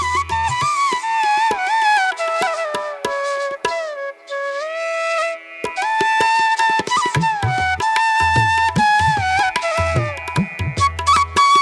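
Instrumental background music: a flute melody with gliding, bending notes over light hand-drum percussion. The low drum beat drops out about a second in and returns about six seconds in.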